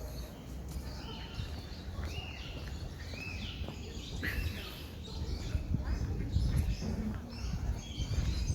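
Birds chirping and calling in short arching notes, over a low outdoor rumble.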